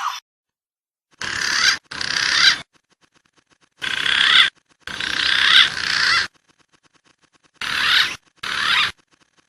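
Recorded bird calls used as a trapping lure: six short bursts of dense, warbling calls, each cut off abruptly, with silent gaps between.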